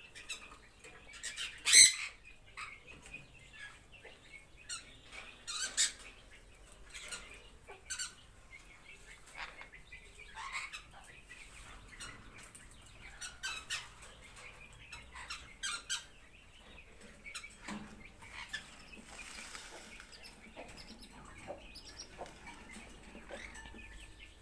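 Parrots calling in scattered short squawks and chirps, with one loud call about two seconds in.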